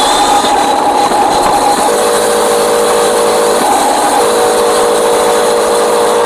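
Radio-controlled Scania model truck running, its electric motor and gearbox whining steadily. The pitch drops and rises between two levels every second or two as the speed changes.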